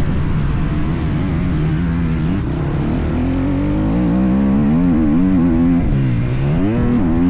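Motocross dirt bike engine revving up and down as it is ridden, the pitch rising and falling with the throttle; near the end it drops low and then climbs sharply again.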